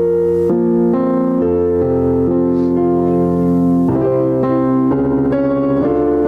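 Keyboard or electric piano playing slow, sustained chords that change every second or so.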